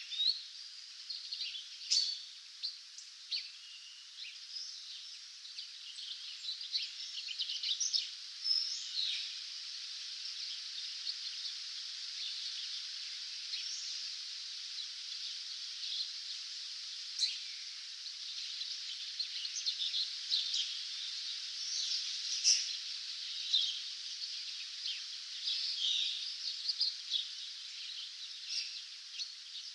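Dawn chorus of many songbirds singing at once: a dense run of short, high chirps and trills over a constant hiss of more distant song.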